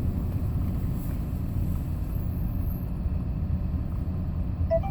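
Hyundai Porter II box truck driving, a steady low rumble of engine and road noise heard from inside the cab. A brief tone sounds near the end.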